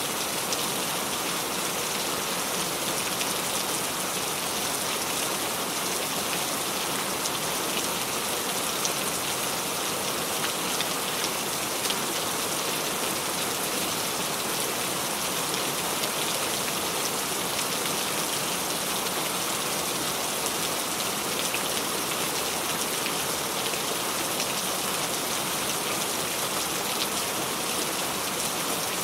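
Steady rain falling on a surface, an even hiss with scattered patter of individual drops.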